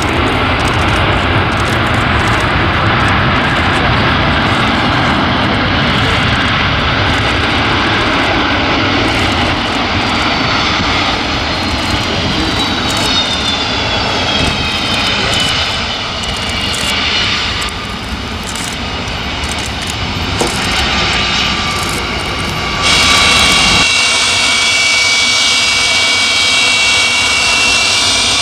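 Antonov An-124's four turbofan engines running loud on landing, a dense jet rumble with a whine that falls in pitch around the middle. About two-thirds of the way through the sound changes suddenly to a louder, higher steady whine with less rumble underneath.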